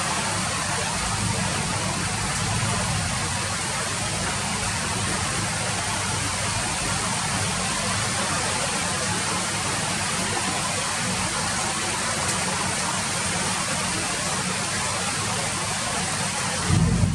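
Steady rain falling, an even hiss with a low rumble beneath it. Near the end the sound changes abruptly, louder at the low end and duller on top.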